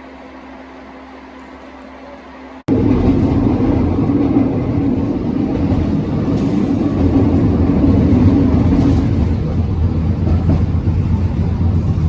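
Tram running on the rails: a loud, steady low rumble of motors and wheels that starts abruptly about two and a half seconds in. Before that, a quieter steady hum with a faint low tone.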